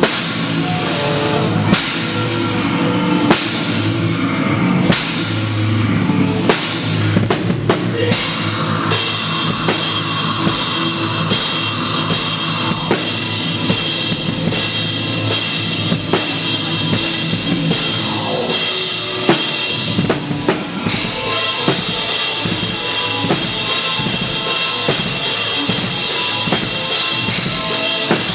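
Live rock band with a loud drum kit up front: kick drum and cymbal crashes land about every one and a half seconds, then about eight seconds in the drumming turns fast and dense, with a steady cymbal wash over it near the end.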